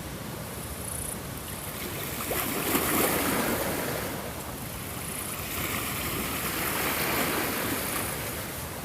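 Ocean waves washing in on a shore, a steady rush that swells twice, peaking about three seconds in and again near seven seconds.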